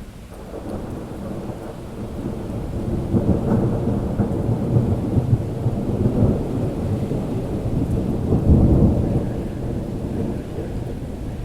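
Long rolling thunder over steady rain. The rumble builds over the first few seconds, is loudest about eight and a half seconds in, then fades.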